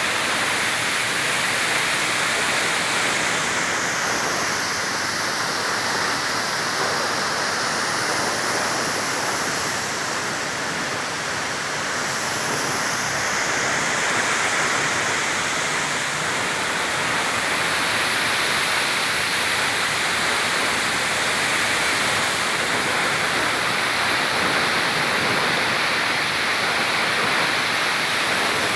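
Waterfall's falling water: a steady, unbroken rushing.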